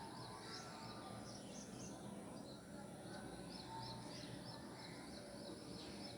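Faint, high-pitched bird chirps repeating in quick runs over a low steady background.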